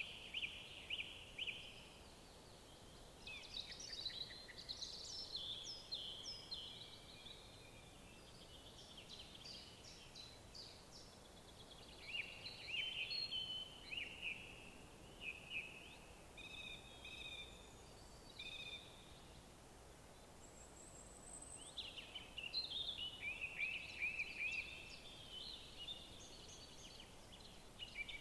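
Several songbirds singing phrase after phrase of quick repeated notes and trills, with a brief high thin note near the middle, over a faint steady background hiss.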